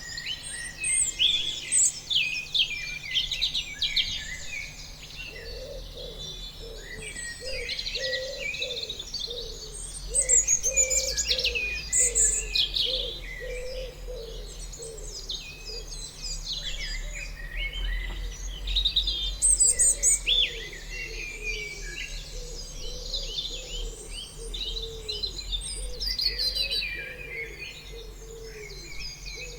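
A chorus of many birds chirping and singing, dense and overlapping, with a lower call repeating about twice a second joining about five seconds in.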